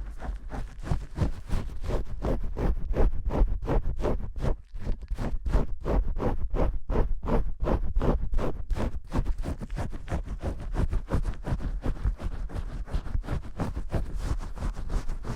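Vigorous shampoo scrubbing: fingers rubbing and squishing through lather in quick, even strokes, about three to four a second.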